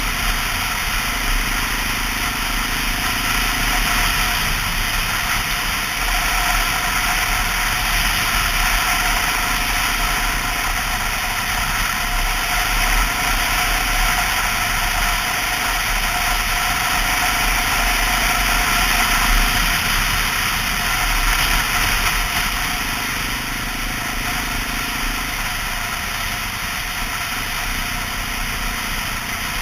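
2002 Honda XR650L's single-cylinder four-stroke engine running steadily while the bike is ridden along, with an even rush of wind and road noise, easing off slightly near the end.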